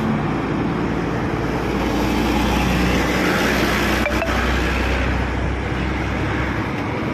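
Steady motor vehicle engine and road noise with a constant low hum.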